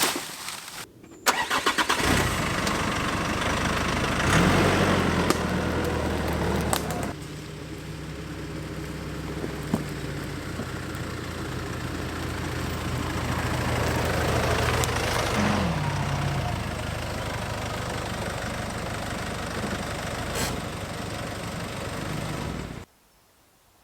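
A petrol engine starting and then running steadily, picking up twice, before it cuts off suddenly near the end.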